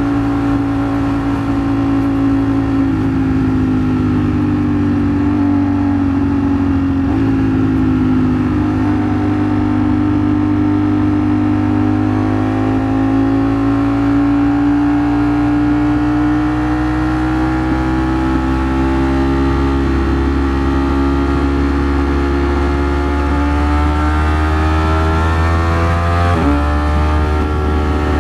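Ducati Streetfighter V4 S's V4 engine running at steady road speed, its pitch dipping slightly and then climbing slowly as the bike gathers speed, before dropping suddenly near the end. A steady low rumble and rushing noise lie under it.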